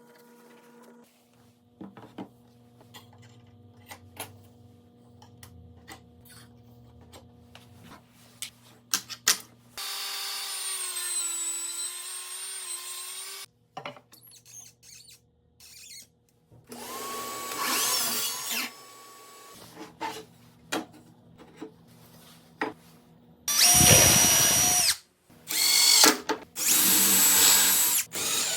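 Power drill running in several separate runs: a whine of about three seconds near the middle, a shorter run a few seconds later, then loud short runs near the end, with small clicks and knocks of handling in between.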